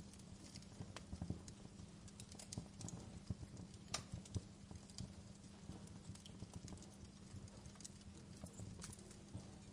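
Wood fire crackling quietly, with irregular pops and snaps over a low steady rumble. The sharpest pop comes about four seconds in.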